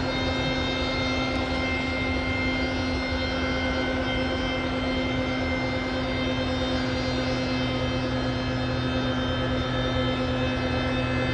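Aircraft noise at an airport: a steady humming drone held at one pitch over a rushing roar, unchanged throughout.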